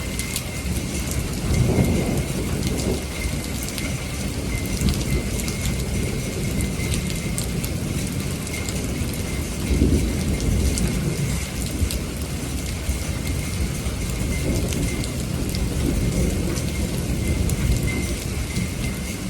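Steady rain with rolling thunder rumbling underneath, swelling loudest about two seconds in and again about ten seconds in.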